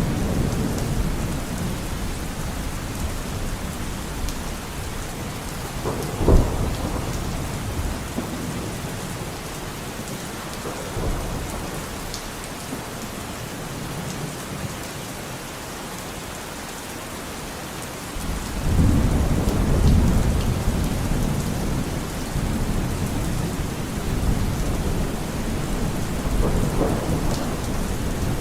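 Steady rain falling in a thunderstorm, with thunder rumbling low underneath. A sharp, loud thunderclap comes about six seconds in, and a longer rolling rumble swells up past the middle.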